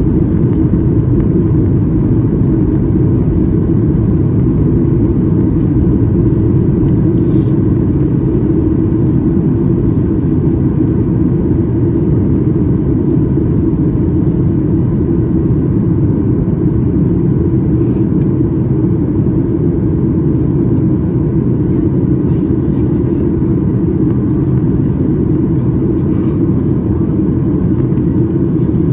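Steady low rumble of airflow and engines inside the cabin of a Boeing 737 MAX 8 airliner, with its CFM LEAP-1B turbofans running evenly. A few faint ticks sound now and then.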